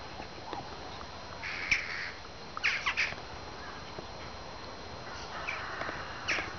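Short, high-pitched animal calls: one about one and a half seconds in, three quick ones near three seconds, and another near the end.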